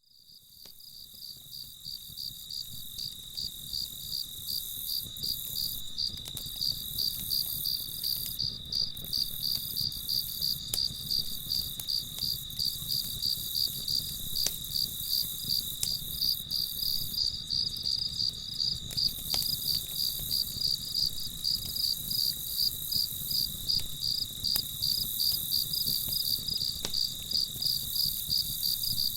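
Crickets chirping in a fast, even pulse that fades in over the first few seconds, over a low, steady rumble, with a few faint clicks now and then.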